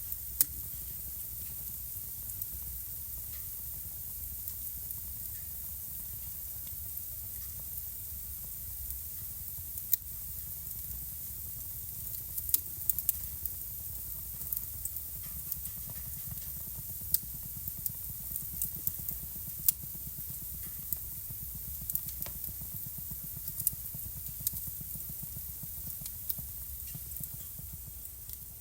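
Wood fire burning in a fireplace: a steady low rumble of flame with scattered sharp crackles and pops, coming more often in the second half.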